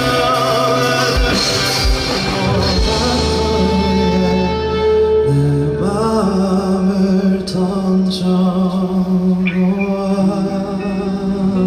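Live band music with singing and guitar, the closing section of a slow pop-rock song.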